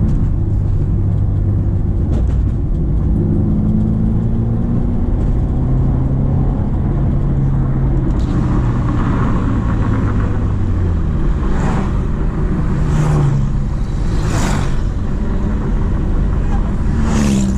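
Subaru XV 2.0's boxer four-cylinder engine pulling under load on a climb, its note holding steady and then dropping away about eleven seconds in. Several brief swishes come in the second half.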